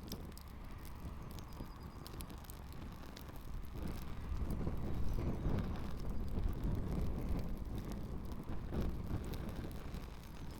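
Campfire burning, with scattered small crackles and pops. A low rumble of wind on the microphone swells about four seconds in.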